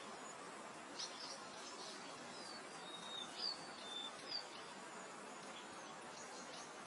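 Soft, steady wind hiss through open grassland, with birds chirping: a run of short high chirps and brief whistles from about one second in, dying away after about four and a half seconds.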